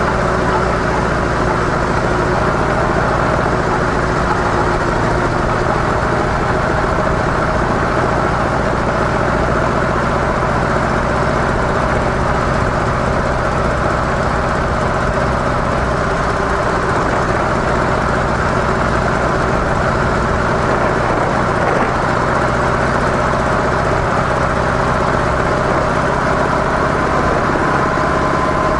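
Harley-Davidson CVO Softail's V-twin engine running steadily through its stock mufflers.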